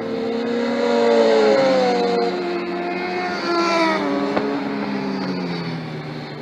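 Motorcycle engine at high revs passing on the track. Its note climbs, breaks sharply about four seconds in as at a gear change, then falls away as the bike moves off.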